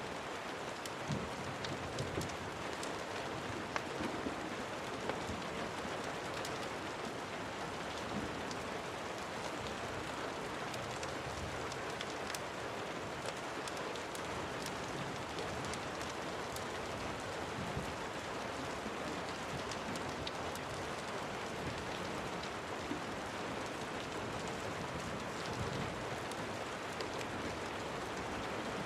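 Steady rain falling, an even hiss with scattered sharp ticks through it.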